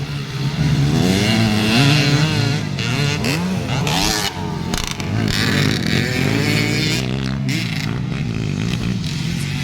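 Several motocross dirt bikes racing, their engines revving up and down through the gears, the pitch rising and falling over and over.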